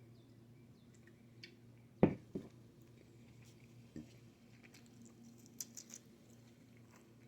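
Quiet eating sounds: small mouth clicks and chewing while eating pizza, with one sharp knock about two seconds in and a few lighter knocks and clicks after it, over a low steady hum.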